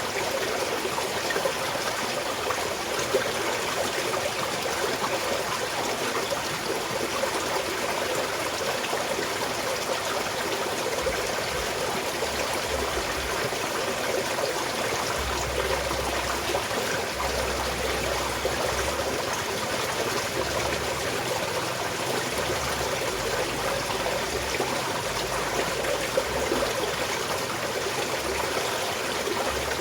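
Small mountain stream flowing and trickling steadily.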